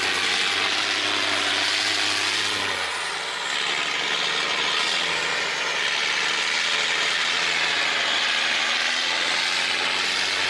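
Boat's diesel engine running steadily under a constant hiss. The lower part of the engine note drops away about three seconds in.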